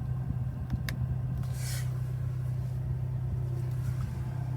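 Steady low hum inside a parked car's cabin, with a faint click about a second in and a brief hiss near two seconds.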